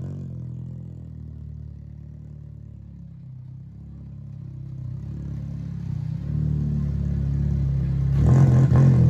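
Car engine idling with a steady low exhaust note that grows louder toward the end.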